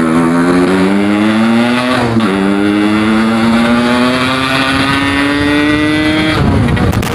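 Yamaha RX-King 135cc two-stroke single accelerating hard through the gears. The engine note climbs, drops briefly at a gear change about two seconds in, climbs again, and the throttle closes shortly before the end.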